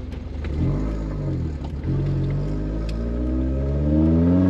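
Fiat X1/9's mid-mounted inline-four engine, fitted with stainless headers, heard from inside the cabin as the car pulls away. The revs rise and fall once about a second in, then climb steadily, getting louder towards the end.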